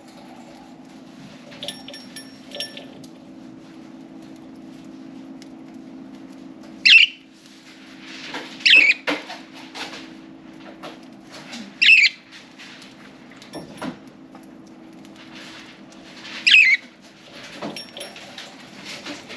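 Budgerigars giving loud, short chirping calls four times, with softer chirps and clicks in between, over a steady low hum.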